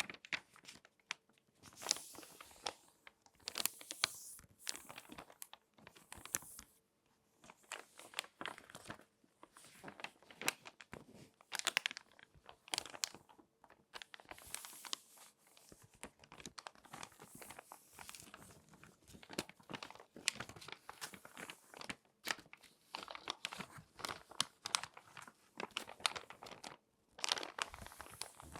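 Crinkly magazine pages being folded and handled close up: irregular bursts of crisp paper crinkling and crackling, with short pauses in between.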